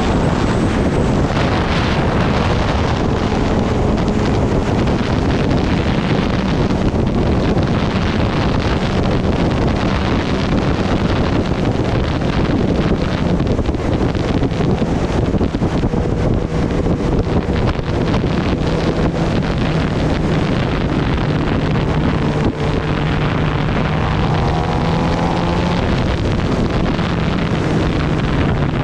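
Kawasaki Ninja ZX-10R's inline-four engine running at speed, with heavy wind rushing over the microphone. The engine note holds fairly steady and rises in pitch a couple of times near the end.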